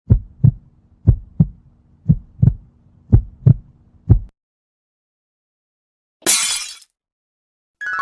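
Heartbeat sound effect: low lub-dub double thumps about once a second, four pairs and then a single beat, stopping about four seconds in. About two seconds later comes a short, hissy crash-like burst, and music starts near the end.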